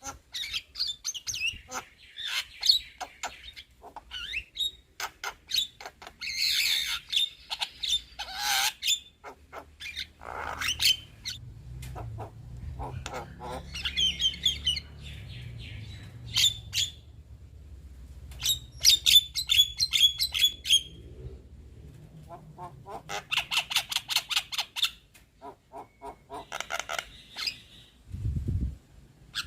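Young Javan myna chattering: harsh squawks, clicks and fast rattling runs in short bursts, with a low rumble underneath for several seconds in the middle.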